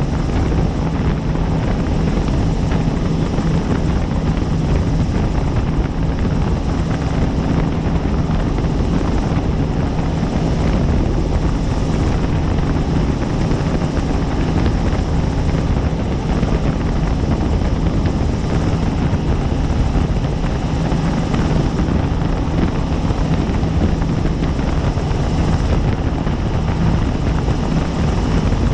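Helicopter in flight, heard as a loud, steady drone of rotor and engine with a faint high whine above it, unchanging throughout.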